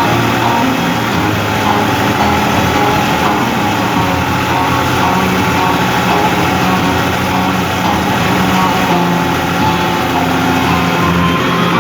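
New Holland 55-56 S tractor engine running steadily, as on a tractor pulling a three-furrow plough.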